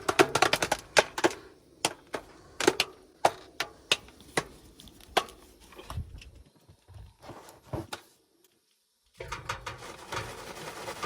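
Jiffy Pop popcorn popping in its foil pan over a campfire, with separate sharp pops coming more and more sparsely as the popping slows toward done. About eight seconds in the sound cuts out for a second, then a steady rustling hiss follows.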